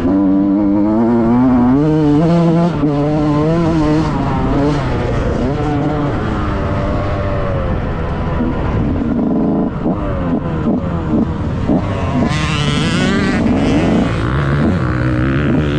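2006 KTM SX 65's small single-cylinder two-stroke engine being ridden hard, its pitch repeatedly climbing under throttle and dropping back as the rider shifts and rolls off.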